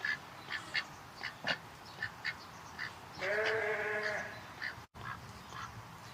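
Farm animal calls: a run of short, high peeps repeating every fraction of a second, and one longer pitched call about three seconds in that lasts about a second.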